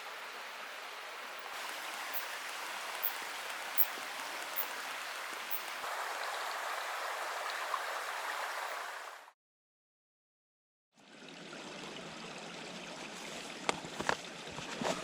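Steady rush of running water. It cuts off completely for about a second and a half around nine seconds in, then a different steady rushing noise follows with a few sharp clicks near the end.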